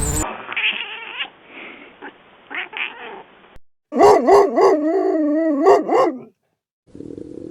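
A pet animal's loud call with a wavering, rising and falling pitch, lasting about two seconds. Before it come a few fainter, muffled animal sounds.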